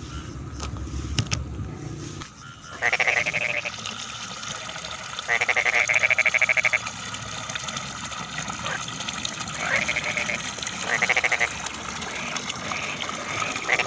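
Rice-field frogs calling: loud, rapidly pulsed, bleating calls, each lasting under a second to about a second and a half, come every few seconds over a steady background chorus of more distant frogs. A low rumble underneath stops abruptly about two seconds in.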